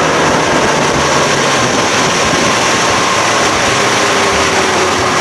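Outboard motor running steadily under way, with a dense rush of wind and water noise over it.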